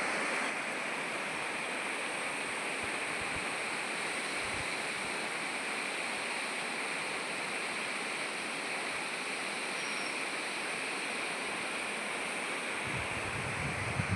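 Steady outdoor rushing noise, with low wind buffeting on the microphone near the end.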